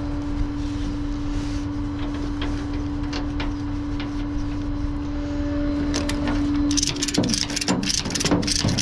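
A truck engine idling with a steady low rumble and hum, then a run of sharp clicks and knocks near the end.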